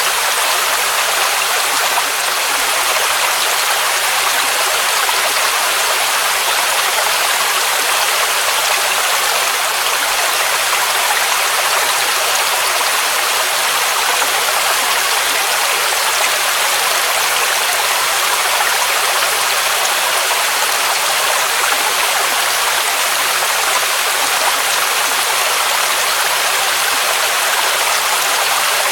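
Waterfall water rushing in a steady, unbroken hiss, its sound weighted toward the high end with little low rumble.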